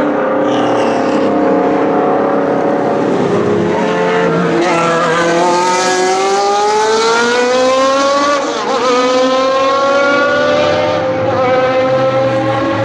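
Historic racing car engines at speed. One car's engine note climbs steadily under hard acceleration for about five seconds, drops briefly at an upshift about eight and a half seconds in, then climbs again in the next gear, over another engine running at steadier revs at the start.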